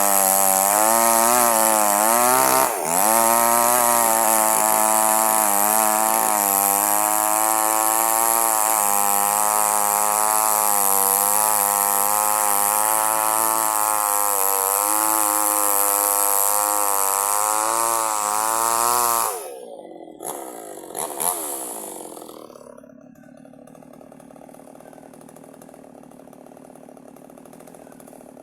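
Chainsaw engine running at high revs as it saws durian wood, its pitch wavering under the load of the cut. About 19 seconds in it drops off sharply and runs on much more quietly to the end.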